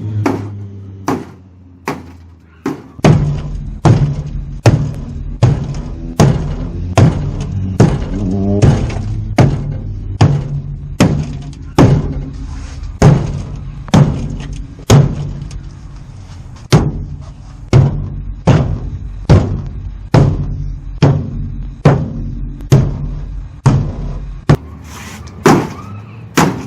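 Sledgehammer blows on a race car's steel rear frame rails, struck over and over at a steady pace of about one and a half a second, beating the crushed rear end back down. Background music plays underneath for most of it.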